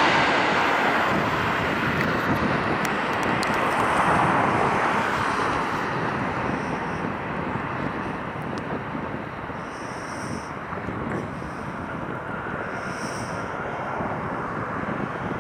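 Jet engine noise of an All Nippon Airways Boeing 787-8 Dreamliner, a broad rushing roar that fades steadily as the airliner draws away after landing.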